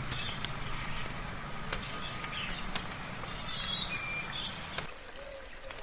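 Birds chirping in short high calls over the steady hiss of soft rain, with scattered sharp drips. A low rumble underneath stops suddenly about five seconds in.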